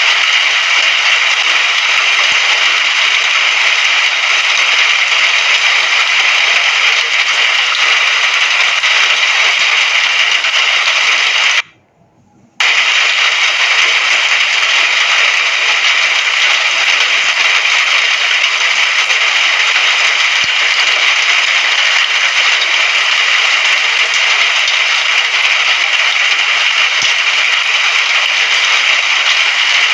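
Steady hiss of heavy rain with a crackling patter, which cuts out abruptly for about a second near the middle and then resumes.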